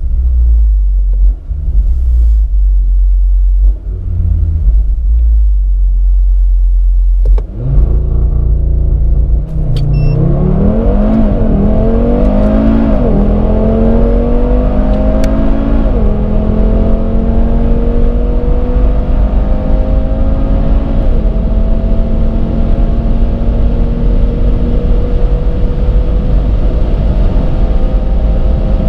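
Audi TT RS's 2.5-litre turbocharged five-cylinder engine under full-throttle acceleration. A heavy low rumble gives way, about a third of the way in, to the engine note climbing with several quick upshifts, each dropping the pitch. It then settles into a long, steady pull in a high gear, with the pitch rising slowly as speed builds.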